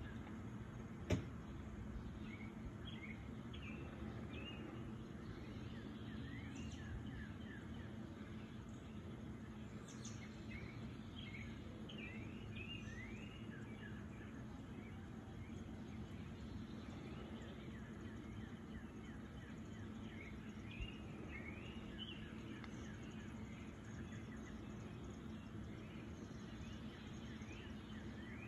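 Small birds chirping in short, rising notes throughout, over a steady low outdoor background hum. A single sharp click about a second in.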